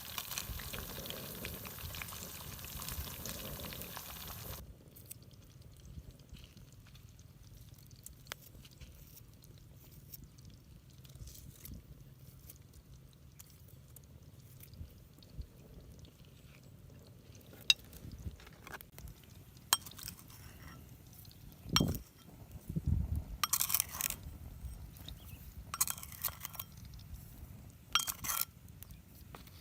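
Fish frying with a steady sizzle that stops abruptly a few seconds in. After that come scattered light clinks and taps, a low thump, and a few short scraping bursts near the end.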